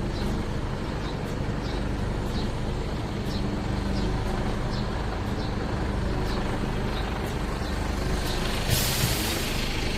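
Heavy truck or bus diesel engine running steadily, with faint regular ticking. Near the end a loud hiss of released air starts suddenly, like an air brake letting off.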